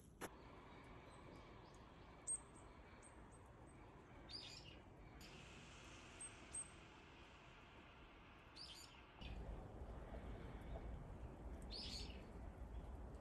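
Faint, scattered short chirps of small birds, a few separate calls spread over the seconds. A low rumble joins about nine seconds in.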